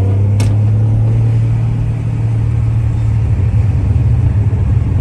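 Turbocharged car engine running with a steady low drone after revving up, with a single sharp click about half a second in.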